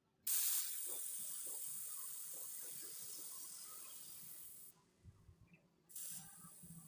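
A pressurized spray hissing in one long burst of about four and a half seconds that slowly fades and stops abruptly, then a second, shorter burst near the end.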